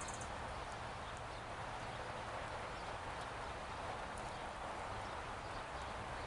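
Steady outdoor background hiss and low hum with faint, scattered high-pitched ticks, typical of small songbirds chipping around a feeder.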